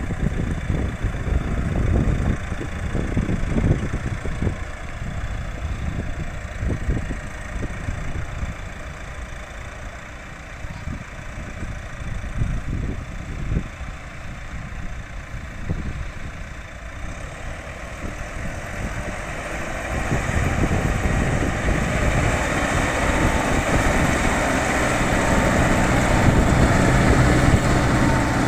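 Irum Tagro tractor's diesel engine running under load while plowing. It grows louder from about twenty seconds in, with a steadier engine hum near the end.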